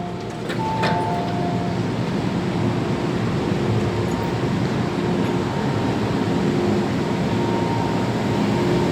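MTR M-Train electric multiple unit running between stations, heard inside the car: a steady rumble of wheels on rail with faint steady motor tones, and a couple of clicks in the first second.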